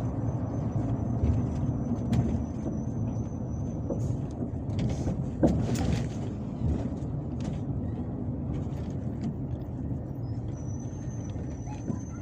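MAZ-257 coach under way, heard from inside: steady engine and road rumble with a thin high whistle, and a few rattles and knocks, the sharpest about five and a half seconds in.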